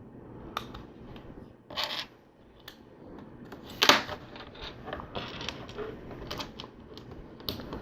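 LEGO pieces being handled and pressed together: scattered small plastic clicks and brief rattles, the sharpest a little under four seconds in.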